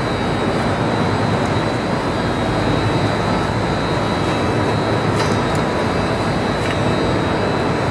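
Steady, loud drone of running shop machinery, with a low hum, a thin high whine and a few faint ticks.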